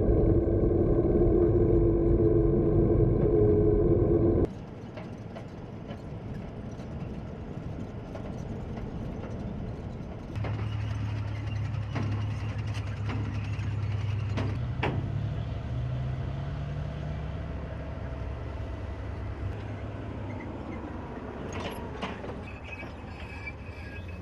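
Armored military vehicle engines running in several cut-together shots: a loud drone with a steady whine for the first four seconds or so, then a quieter stretch, then an engine note that rises a little and settles back, with a few sharp clanks.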